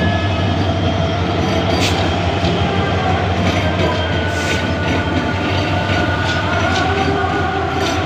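A train running steadily past or under way: a continuous low rumble with several steady whining tones over it and a few short sharp clicks.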